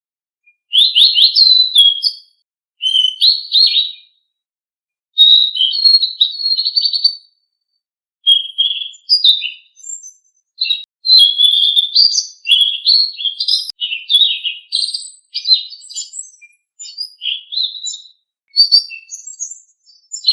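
Selendang biru songbird singing: rapid, varied high-pitched chirping and whistled phrases of one to three seconds each, separated by short pauses.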